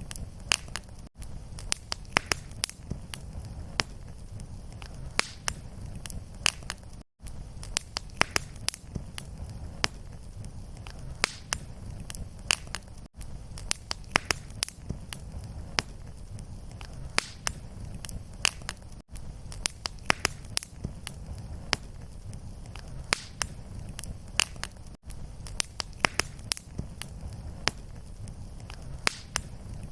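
Fireplace fire crackling, with frequent sharp pops over a low steady rumble. Brief dropouts about every six seconds mark the seams of the repeating loop.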